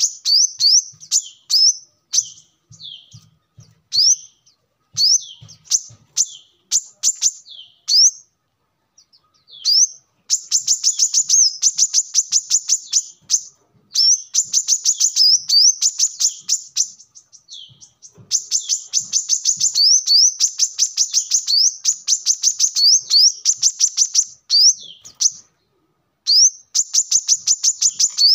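Brown-throated sunbird (kolibri kelapa) singing: long runs of high, thin chirps repeated many times a second, broken by short pauses.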